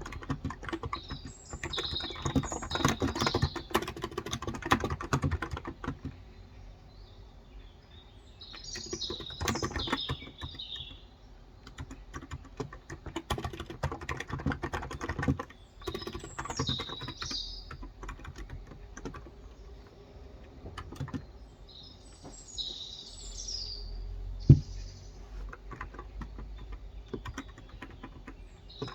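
Typing in runs of keystrokes on a Cox Endeavor electrostatic-capacitive (Topre-style) tenkeyless keyboard with light 35 g switches. Birds chirp in short bouts four times. One sharp knock, the loudest sound, comes about five seconds before the end.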